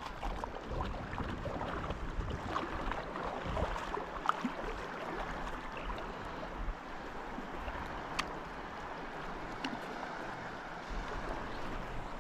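Steady rush of flowing river water, with a low uneven rumble underneath and a couple of light clicks late on.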